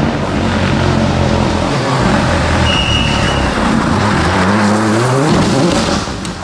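Rally car engine running hard, its pitch climbing and dropping again and again, with a brief high squeal about three seconds in.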